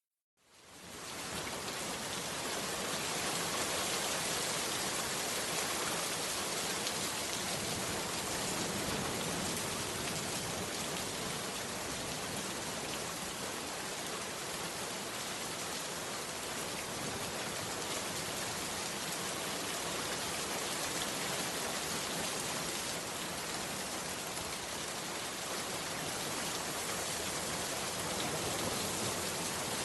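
Heavy rain falling steadily, fading in from silence over the first second or two and then holding at an even level.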